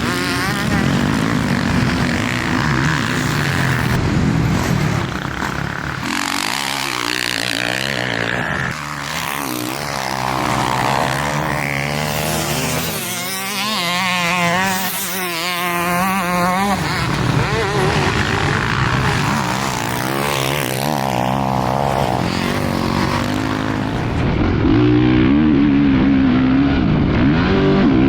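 Dirt bike engines revving up and down as the bikes ride, the pitch climbing and dropping with the throttle and gear changes.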